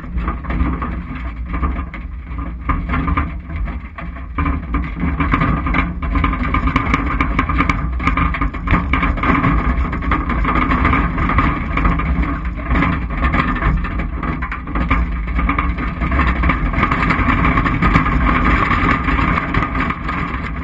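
An SUV driving over a rough off-road trail: steady engine and drivetrain rumble, with frequent knocks and rattles as it jolts over bumps.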